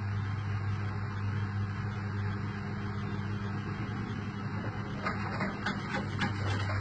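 Beko/Arçelik washing machine running in its test mode with a steady low hum, and a run of clicks and knocks starting about five seconds in.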